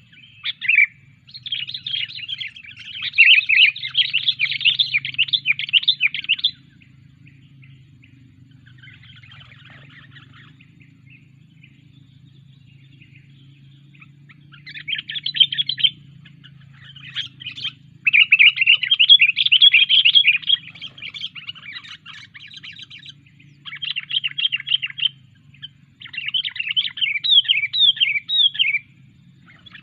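Sooty-headed bulbul (kutilang) chirping in loud runs of quick notes, with a long lull in the middle and several short runs near the end, over a faint steady low hum.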